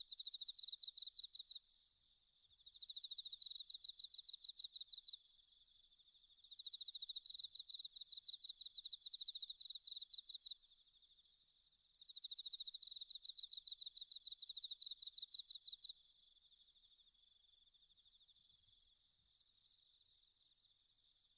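Insects chirping: fast, high-pitched pulsed trills in bouts of a few seconds, with a second, higher chirp between the bouts.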